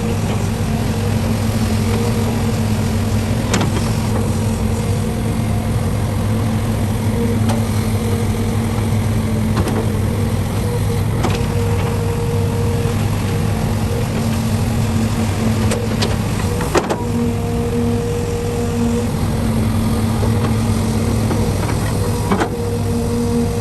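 Heavy diesel earthmoving machinery running steadily, with several short, sharp knocks scattered through.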